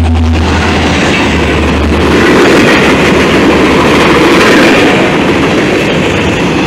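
CSX diesel freight train passing close by: the low drone of the diesel-electric locomotives drops away about two seconds in, leaving the loud, steady rumble of freight cars rolling past on the rails.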